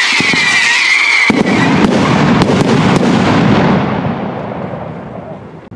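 Consumer fireworks going off: a loud hissing whistle that wavers and falls slightly, then gives way about a second in to dense crackling and rumbling bangs, which fade out over the last two seconds.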